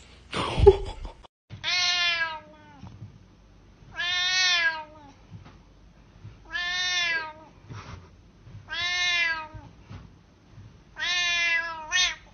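A cat meowing loudly and repeatedly: five long meows about two seconds apart, each rising and then falling in pitch, the last followed by a short one. A single thump is heard just under a second in, before the meowing starts.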